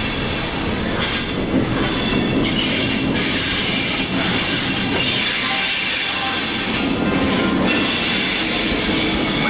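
Passenger express train rolling into a station platform: a steady rumble and clatter of coach wheels on the rails, with a thin metallic squeal from wheels and brakes.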